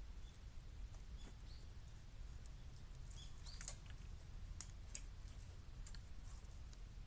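Burning bamboo crackling in a bottomless 18-litre metal can: faint, irregular small pops and ticks, a handful over several seconds, over a low steady rumble.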